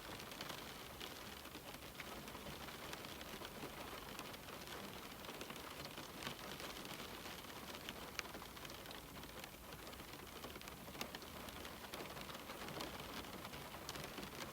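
Steady rain on a window: an even hiss with many small drops ticking and a few sharper taps.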